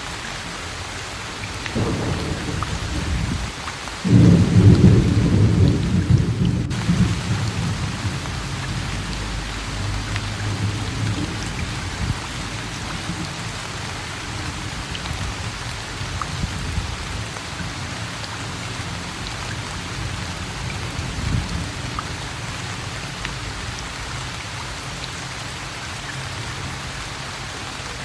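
Steady rain falling, with a long roll of thunder that starts about two seconds in, swells loudest around four seconds and rumbles away over the next several seconds. A fainter rumble follows later.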